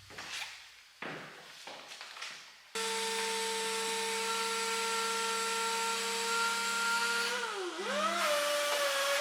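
An electric power-tool motor starts suddenly about three seconds in and runs with a steady whine. Near the end its pitch sags, rises and wavers again.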